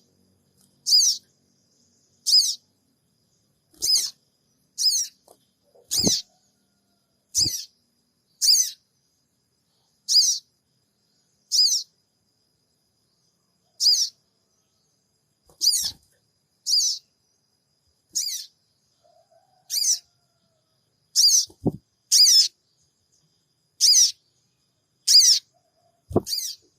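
Sogon songbird calling: short, high 'cingik cingik' chirps repeated about once a second. A few brief low thumps occur, around six and seven seconds in, and twice near the end.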